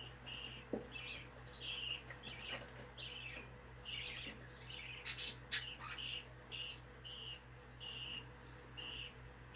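Pet budgerigars chirping and chattering, a continuous run of short high chirps several times a second.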